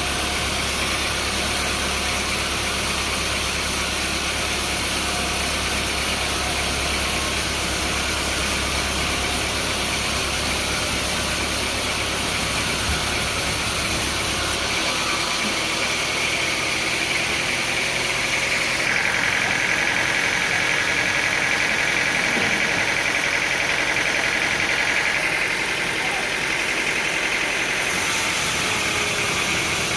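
An engine-driven machine running steadily. About halfway through its low hum drops away, and a steady high whine grows stronger for several seconds before easing back.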